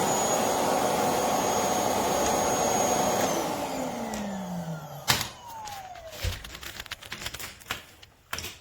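Philips Series 3000 Performer Compact 900 W bagged vacuum cleaner running with a steady whirr and high whine, then switched off about three seconds in, its motor winding down with a falling pitch. A few clicks and knocks follow.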